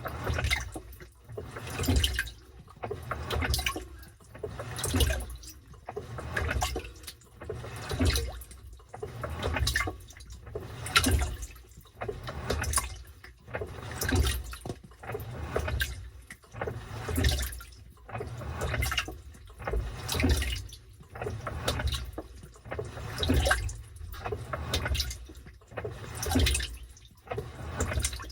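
Washing machine churning its wash water: sloshing surges come back regularly about every one and a half seconds as the wash action swings back and forth, each with a low rumble underneath.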